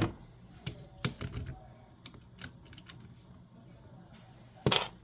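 Light clicks and taps of small plastic and metal parts being handled while RC car wheels are fitted, with a sharper, louder click near the end.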